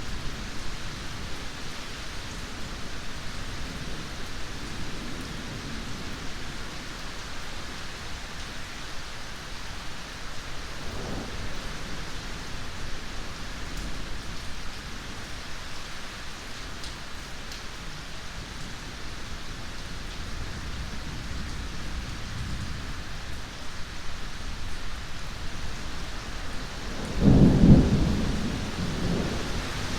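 Steady heavy rain with thunder rumbling low, swelling briefly about a third of the way in and cracking into a loud, deep peal near the end.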